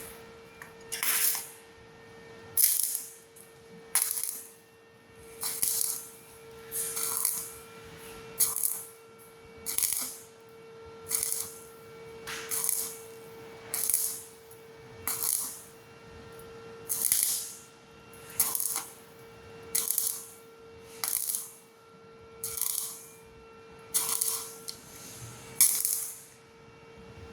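Stick welding arc on thin galvanized steel pipe, struck in short crackling bursts about every one and a half seconds: the arc is laid on and broken again and again to keep from burning through the thin metal. A faint steady hum runs underneath.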